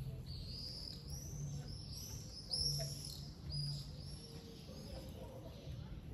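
Small songbird chirping: a run of short, high notes about two a second that stops a little past halfway, over a steady low background hum.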